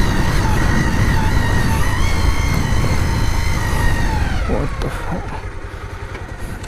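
Motorcycle running along a rough road, its engine and road rumble steady; about four and a half seconds in the engine note falls and the sound grows quieter as the rider eases off the throttle.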